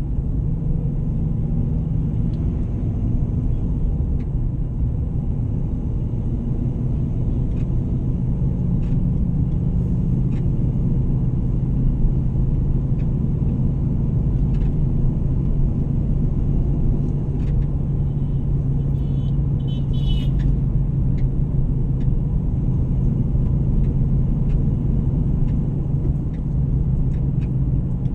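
A motor vehicle driving at a steady pace: a continuous engine and road drone with a low hum that holds steady pitch, plus a brief high chirp about twenty seconds in.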